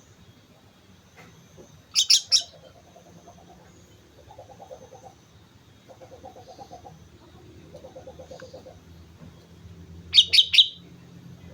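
Sooty-headed bulbul (kutilang) singing short loud phrases of three or four quick high notes, twice: about two seconds in and again near the end. Between the phrases a softer, lower call made of fast pulses repeats several times.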